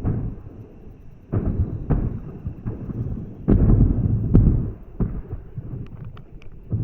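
Fireworks shells bursting in a series of deep booms, about five, each followed by a long rumbling echo like thunder. Faint crackles come near the end.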